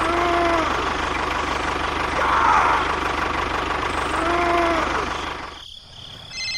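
A small engine running steadily with a fine regular pulse, fading out about five and a half seconds in. Over it come two short arched pitched calls, one at the start and one about four seconds in, with a wavering higher sound between them.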